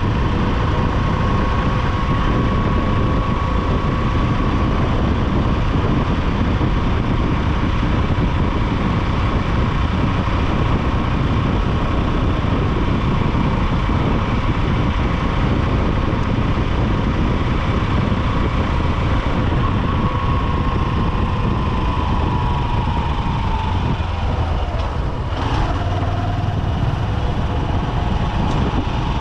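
Honda SP125 motorcycle's single-cylinder engine running in dense city traffic. A steady whine in the engine and traffic noise glides down in pitch from about twenty seconds in, and a brief click comes about twenty-five seconds in.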